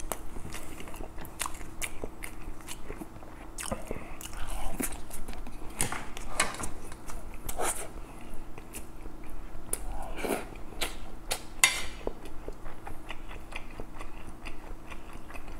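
Close-miked eating sounds: a man chewing mouthfuls of kimchi stew, with irregular wet smacks and clicks of the mouth and the odd crunch.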